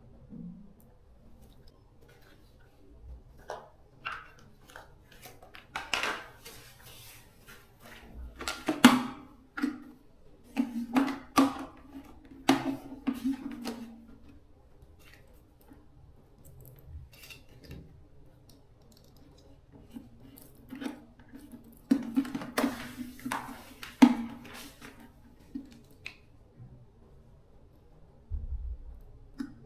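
Metal parts and hand tools being handled during repair work: irregular clinks, knocks and scraping, some with a short metallic ring, in two busier spells.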